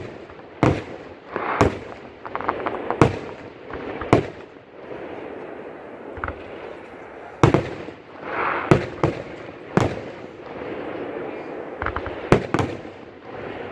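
Fireworks display: aerial shells bursting in about ten sharp booms at irregular intervals, some in quick pairs, with smaller crackling pops between them.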